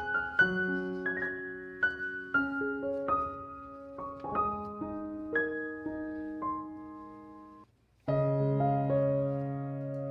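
Soft background piano music: single notes played one after another over a held accompaniment. The music cuts out briefly near the end, then comes back with a new sustained chord.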